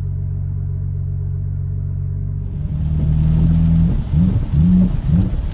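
BMW N52 3.0-litre straight-six idling steadily, then rising in revs about two and a half seconds in. From about four seconds in, its pitch surges up and falls back again and again, roughly twice a second. This is the surging and loss of power the owner cannot trace, with new VANOS solenoids and camshaft sensors already fitted.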